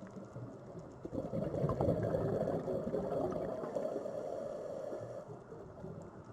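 Sea waves: a wave swells and breaks about a second in, then its wash slowly fades back to the steady surf.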